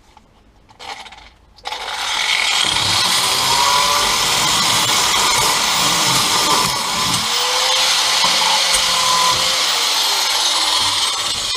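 Electric power sander starting up about two seconds in, its pitch rising as it spins up. It runs steadily while being worked against rusty car-body steel, then winds down near the end.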